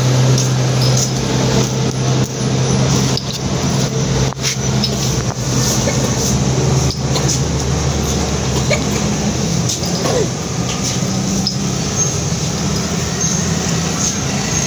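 A steady low engine hum over general noise, with scattered small clicks.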